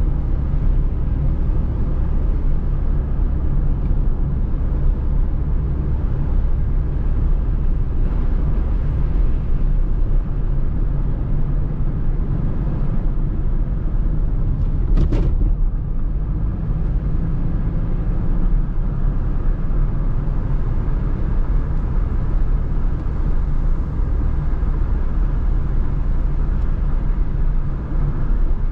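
Cabin sound of a Mini Cooper R50's naturally aspirated 1.6-litre inline-four petrol engine pulling steadily on the move, a constant low drone mixed with tyre and road rumble. A single short, sharp knock about halfway through.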